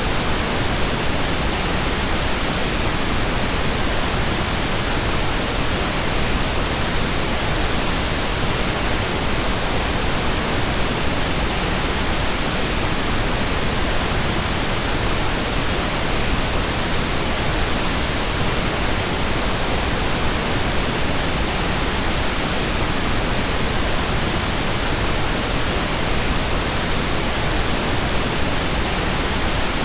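Steady, unchanging pink noise: an even hiss spread across all frequencies.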